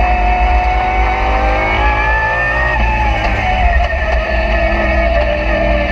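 Lamborghini Super Trofeo race car's V10 engine heard from inside the cockpit at racing speed. Its pitch climbs for the first two and a half seconds, drops about three seconds in, then holds and starts to climb again.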